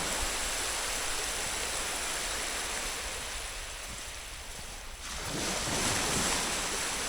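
Sea surf washing onto a beach: a steady rush of waves that ebbs about four seconds in and swells again with a new wave a little after five seconds.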